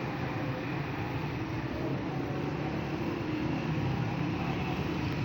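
Steady roadside traffic noise: a continuous low engine rumble under an even hiss.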